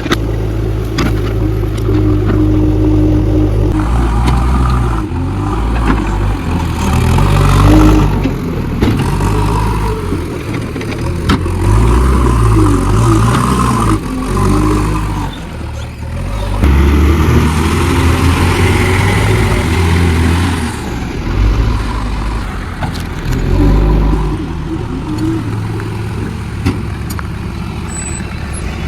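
JCB backhoe loader's diesel engine running under load, revving up and down as the machine works, with a few sharp knocks.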